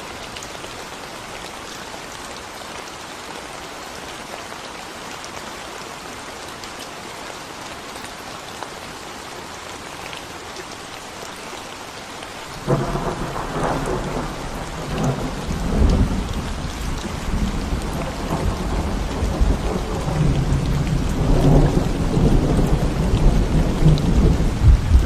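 Steady rain falling on a concrete road. About halfway through, a long rumble of thunder breaks in suddenly and keeps rolling, with surges that grow louder near the end.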